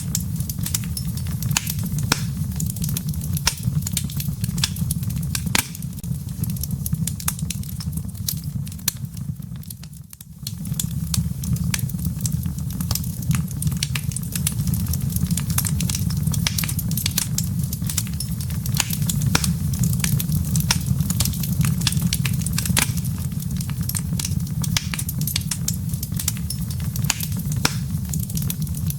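Wood fire in a fireplace crackling, with embers popping in quick irregular snaps over a steady low rumble of the flames. The sound fades briefly about ten seconds in, then returns.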